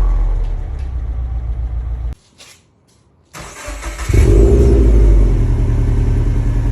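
2013 Subaru WRX's turbocharged flat-four engine running loud through its exhaust. It cuts off abruptly about two seconds in and is near-silent for about a second. It then comes back, rising to a loud, steady note about four seconds in.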